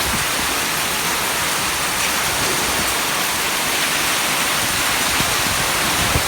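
Heavy rain pouring down, a dense, steady rush of falling water.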